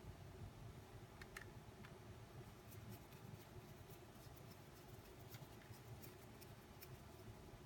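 Near silence: room tone with a scattering of faint, light clicks and ticks, like small parts being handled.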